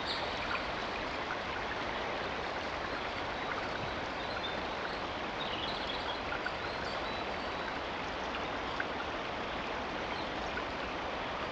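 Small forest river running steadily, with a few faint high bird calls over it.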